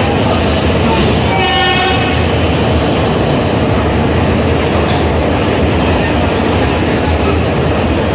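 Simhadri Express passenger coaches rolling past along the platform: a steady, loud rumble of wheels on rail. A short train horn sounds about a second and a half in.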